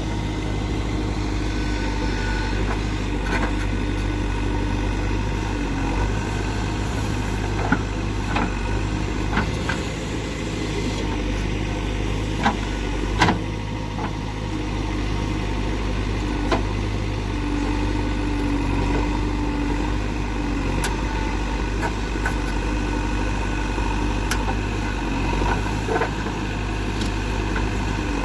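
Diesel engine of a JCB 3DX backhoe loader running steadily, with a few short sharp knocks scattered through, the loudest about halfway.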